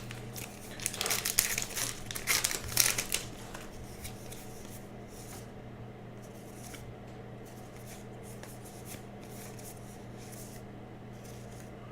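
Baseball trading cards being handled and flipped through, with quick papery slides and snaps in the first few seconds, then only a few faint clicks over a steady low hum.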